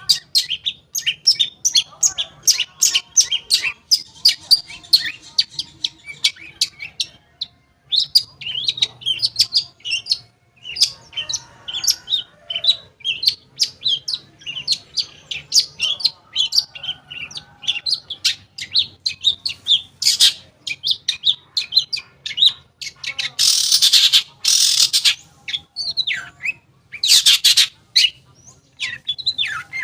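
Long-tailed shrike (cendet) singing a rapid, varied chattering song of short high notes, broken from about twenty seconds in by harsh rasping calls, the longest lasting about two seconds.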